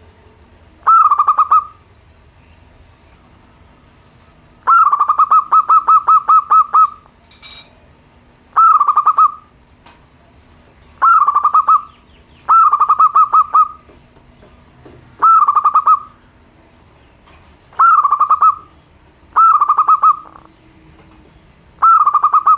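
Local zebra dove (perkutut) singing its simple cooing song: short phrases of rapid staccato notes, repeated every one to three seconds, with one longer run of notes about five seconds in.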